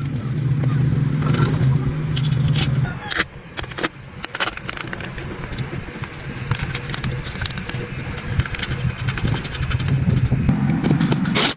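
A motor running steadily, dropping away about three seconds in and building back up near the end, with scattered sharp clicks and knocks.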